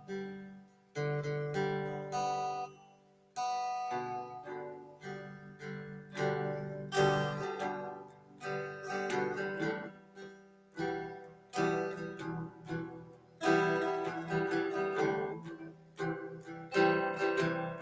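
Background music on acoustic guitar: plucked and strummed notes and chords, with two short pauses in the first few seconds.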